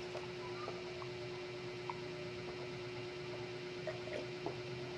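Steady low electrical hum with a thin steady tone, and a few faint soft ticks.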